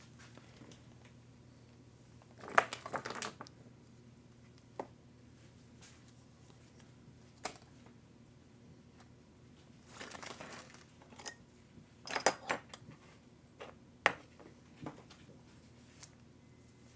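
Small parts being handled: a few sharp clicks and taps of hardware and tools, with three short bursts of crinkling rustle, over a low steady hum.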